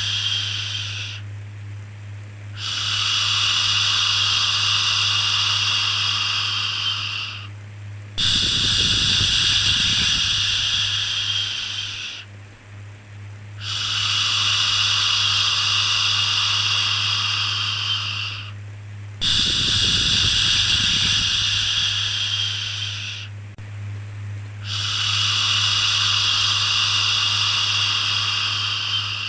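Repeated long 'shhh' shushing, each shush lasting four to five seconds with a pause of about a second between, as soothing white noise for a baby. A steady low hum runs beneath.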